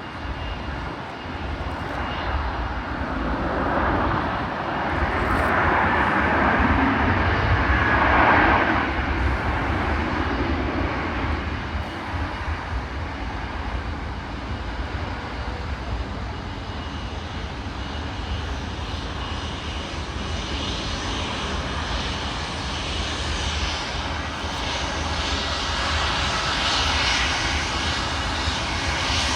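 Jet airliner engines: a broad rushing roar that swells to its loudest several seconds in, fades back, and builds again near the end as another aircraft approaches.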